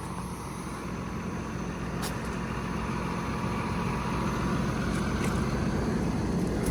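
Hino 338 truck's 7.6-litre turbo diesel idling steadily, a low even hum that grows slowly louder, with a couple of faint clicks.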